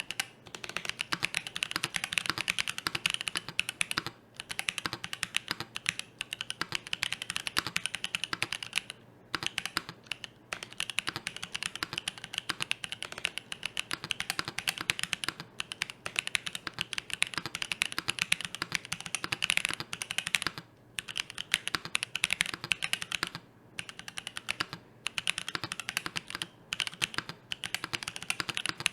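Fast, continuous typing on a freshly built CannonKeys Devastating TKL mechanical keyboard with Boba switches on an FR4 plate and GMK keycaps, the keystrokes broken by a few short pauses.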